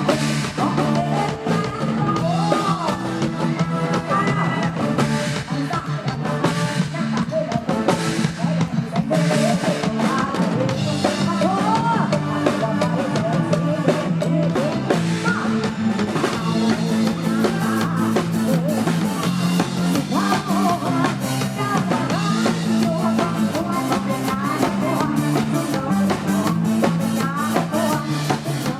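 Live band music: drum kit keeping a steady beat under a bass line and guitar, with a voice singing the melody.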